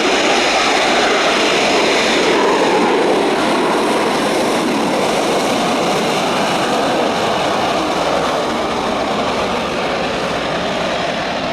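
Eurofighter Typhoon jet engine noise, loud and steady, slowly fading toward the end.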